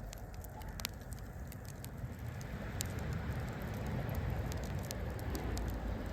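Wood campfire crackling with scattered sharp pops, over a low rushing noise that swells in the middle.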